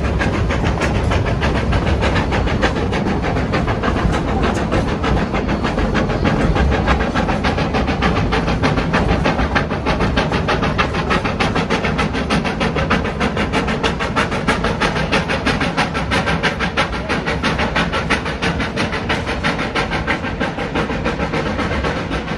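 Narrow-gauge excursion train rolling along: a steady low rumble of wheels on rail with dense, rapid rattling throughout.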